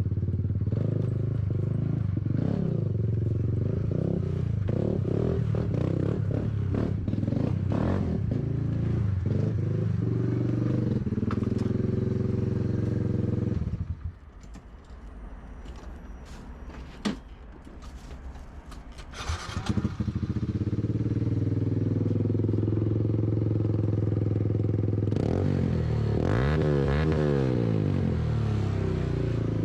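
Motorcycle engine running on the ride, then dropping away for about six seconds in the middle with a single click, and running again after that. Near the end the engine note swings up and down several times as the revs change.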